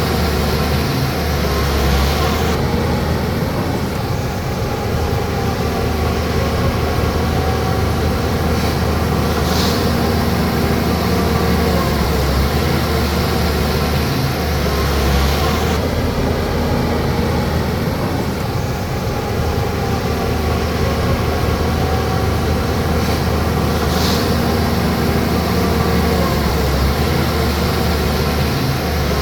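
Bulldozer's diesel engine running steadily under load, its pitch rising and falling a little as it works.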